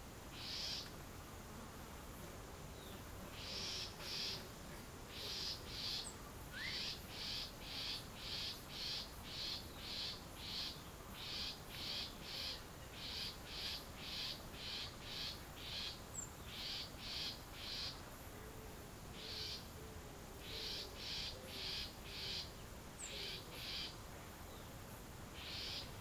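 A bird's rasping, unpitched call repeated about twice a second in runs of several, with short pauses between the runs.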